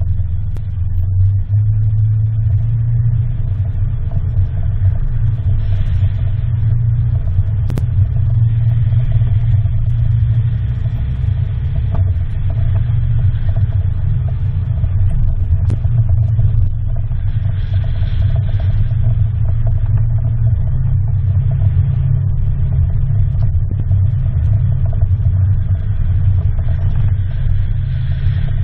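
A vehicle engine running with a steady, deep rumble.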